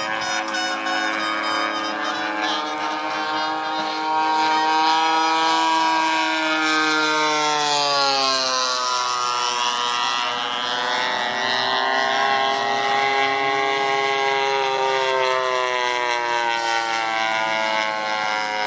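Desert Aircraft DA-85 twin-cylinder gasoline two-stroke engine of a large RC P-47 in flight, running steadily. Its pitch falls and rises again several times as the plane makes passes.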